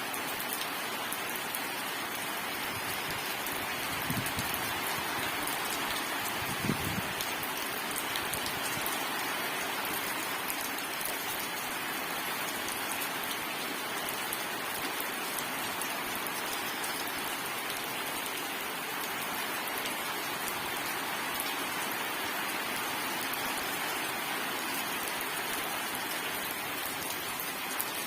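Steady rain falling: a dense, even hiss of many drops. Two brief low thuds sound about four and seven seconds in.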